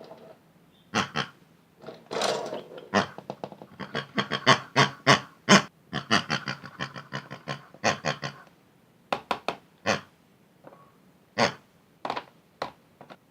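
Irregular series of sharp knocks and clicks, coming thick and fast through the middle and thinning out toward the end.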